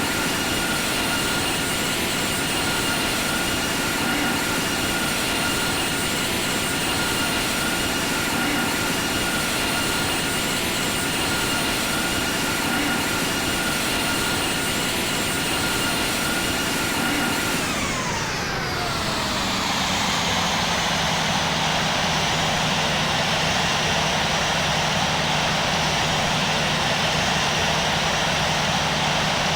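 Jet airliner engines with a steady whine over a rushing noise. About 18 seconds in the whine falls sharply in pitch and a louder, fuller rushing noise takes over.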